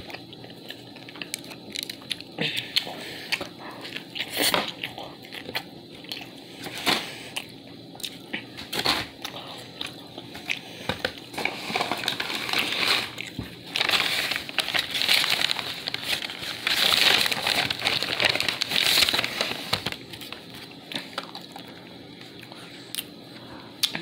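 Close-up chewing and mouth clicks while eating a burger held right at the microphone. A denser stretch of crinkling from about halfway through to near the end sounds like the paper takeout bag or wrapper being handled.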